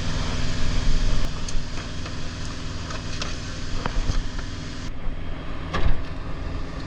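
A semi truck's engine idling steadily, with scattered small clicks and a louder knock a little before six seconds in.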